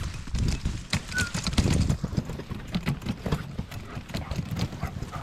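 Footsteps of someone walking outdoors: an irregular run of soft thuds and clicks.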